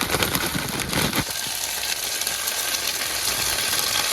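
Onions and tomatoes frying in a pan, a steady crackling sizzle.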